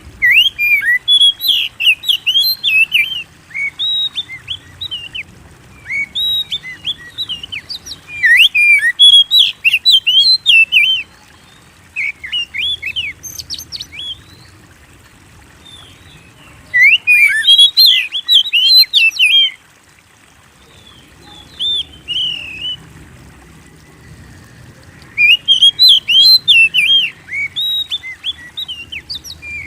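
Oriental magpie-robin (kacer) singing a loud, fast song of varied high notes. It sings in phrases of a few seconds, with short pauses between them.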